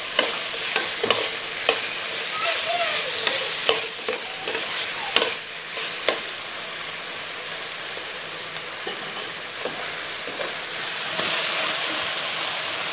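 Metal spoon stirring chicken wings, onion and ginger-garlic paste as they fry in a stainless steel pot, with sharp clinks and scrapes against the pot over a steady sizzle. Near the end the sizzle grows louder as squid rings and onion fry in a wok.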